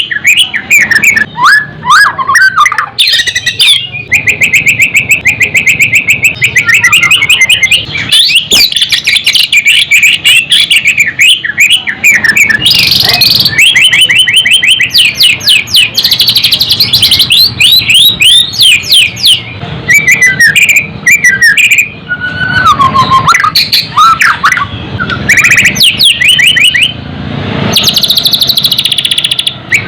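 White-rumped shama singing loud, almost unbroken song: fast trills of rapidly repeated notes and chattering phrases, with a few lower whistled glides and only brief pauses between phrases.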